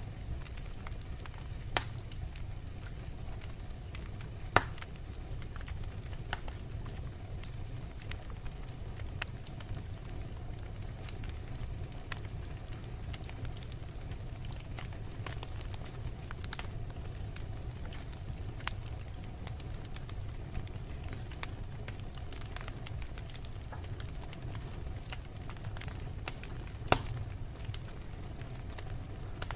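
Wood logs burning in a fireplace: a steady low rumble of flame with scattered crackles and occasional sharp pops, three of them louder, about 2 and 4.5 seconds in and near the end.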